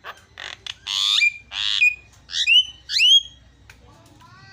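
Javan myna (jalak kebo) singing: a string of harsh, rasping notes followed by clear whistles, ending in two loud whistled notes that slide downward.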